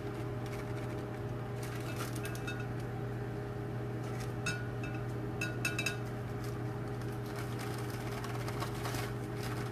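Microwave oven running with a steady low hum, under faint rustling and light clicks as dry brownie mix is scooped into a measuring cup.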